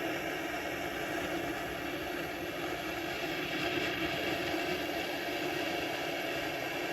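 Blowtorch flame burning steadily with an even rushing hiss, heating a chainsaw crankcase half so that it expands and the crankshaft bearing can be knocked out.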